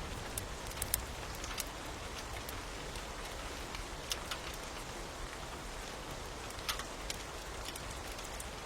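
Steady rain falling, with sharp, scattered pops and crackles of a wood fire over it.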